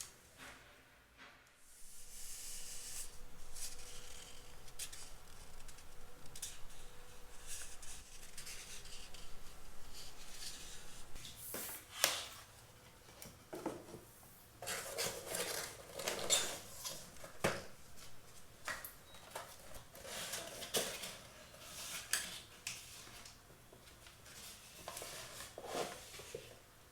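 Small household objects being handled. First a steady rubbing or scraping for several seconds, then a run of separate light knocks and clatters as things are picked up and set down on a hard surface.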